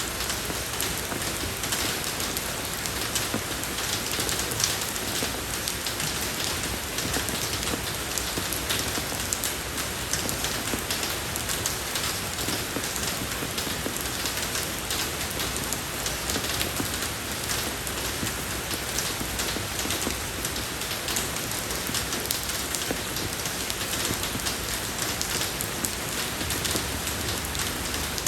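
Steady rain falling on a road surface, an even hiss with many fine individual drop ticks.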